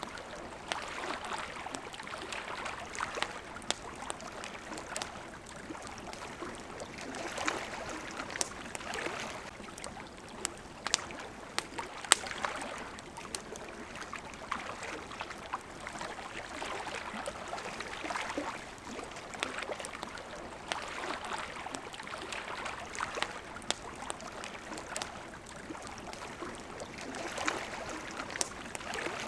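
Small waves lapping at the water's edge in soft, repeated swells, with a campfire crackling over them in scattered sharp pops, the loudest about twelve seconds in.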